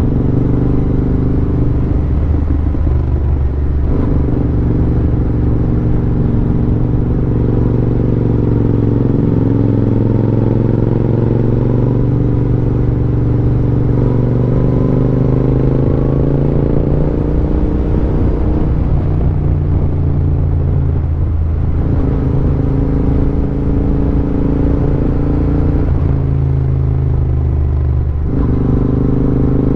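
Royal Enfield Interceptor 650's parallel-twin engine running on the move, its note rising and falling with the throttle and dipping briefly a few times.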